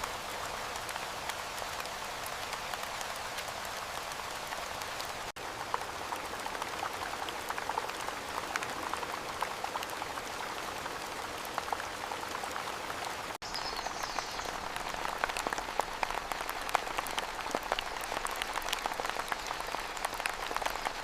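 Steady rain falling, an even hiss with many individual drops ticking through it. It cuts out for an instant twice, about 5 and 13 seconds in.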